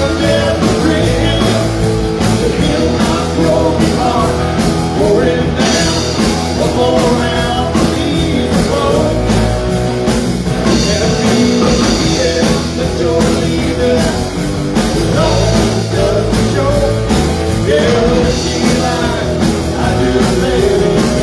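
Live rock band playing loud and without a break: electric guitar, bass and drums.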